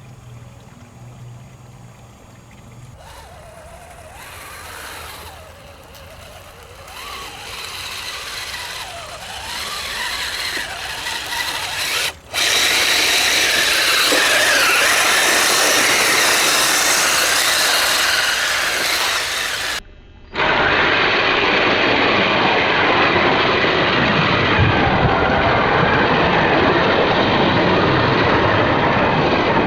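Electric motor and gear drive of an Axial SCX10 RC truck on tracks running and whining at varying speed. It swells over the first dozen seconds, then runs loud and steady, dropping out suddenly twice, about twelve and twenty seconds in.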